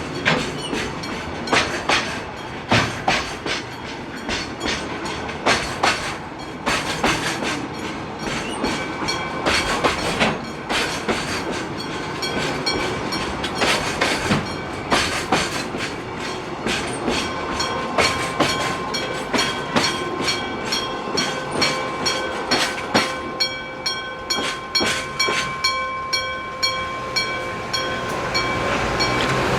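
Freight train cars rolling through a level crossing, their wheels clacking over rail joints, while the crossing's electric-bell (denshō) warning rings. In the last several seconds the clacking thins out and the bell's rapid, even strikes and its ringing tone stand out more clearly.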